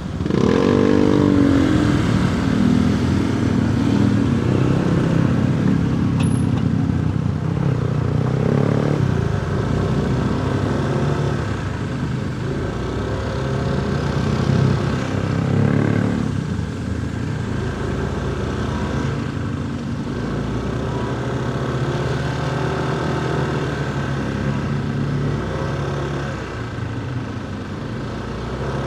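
Motorcycle engine heard from the rider's seat, revving up as it pulls away about a second in, then running steadily at riding speed with some swells in revs, amid city traffic noise.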